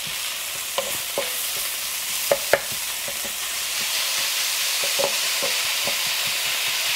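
Ground pork and onions sizzling in an electric wok as a wooden spatula stirs and breaks up the meat, with scattered scrapes and taps of the spatula against the pan. The sizzle grows a little louder about halfway through.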